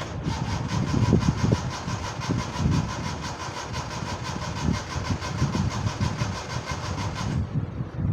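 Suzuki Mehran's starter motor cranking the engine on a low battery, with an even rhythmic chug of about five to six beats a second over a steady whine. It cranks for about seven seconds, then stops suddenly. A low rumble runs underneath throughout.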